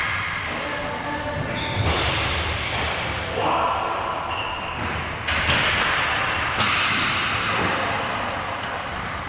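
Reverberant din of a team game in a large indoor hall: repeated thuds and slams, with background voices.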